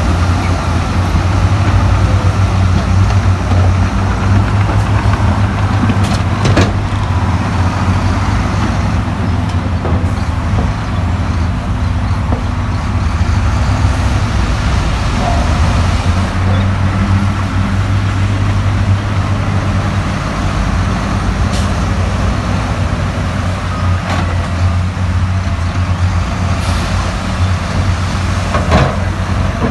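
Heavy construction machine's diesel engine running steadily with a deep low rumble, with a few short sharp knocks or clanks.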